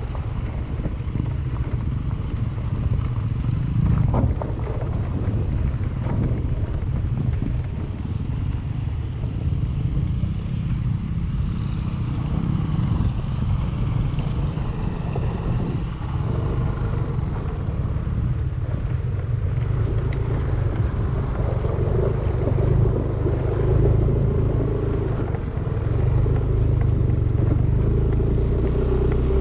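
Yamaha Aerox 155 scooter's single-cylinder engine running as it is ridden, mixed with steady wind and ride noise on the microphone.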